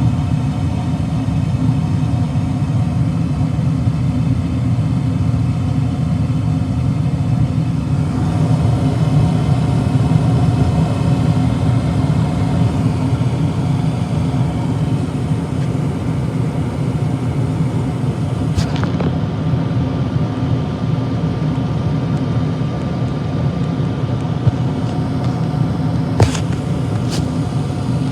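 A steady, loud mechanical rumble with a faint hum running through it, and a few sharp clicks late on.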